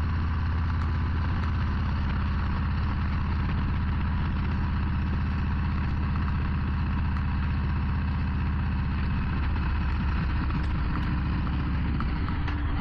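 Harley-Davidson Low Rider ST's Milwaukee-Eight 117 V-twin running steadily at an even, unchanging level.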